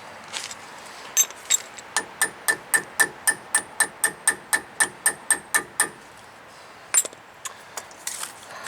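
A hammer tapping on metal, striking a tool into a seized, broken brake line fitting to try to free it. After two first blows it settles into a steady run of about sixteen ringing strikes, roughly four a second, with one more blow near the end.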